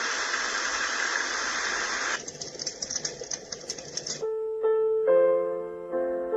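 Dreamegg Pocket Sleep 1 mini white-noise machine switching between its built-in sounds: a steady rushing noise, then about two seconds of thinner crackling noise, then from about four seconds in a gentle lullaby melody of clear bell-like notes.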